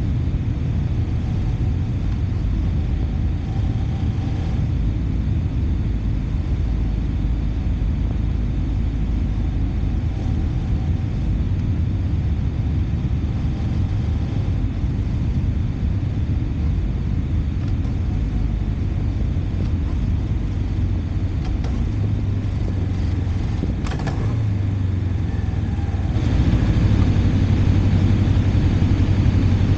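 Motorcycle being ridden: a steady engine note under a low road and wind rumble, growing louder about 26 seconds in.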